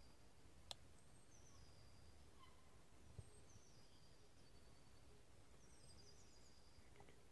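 Near silence with faint birdsong: short high calls that slide downward, repeated every second or two. A single sharp click comes just under a second in, and a soft low knock about three seconds in.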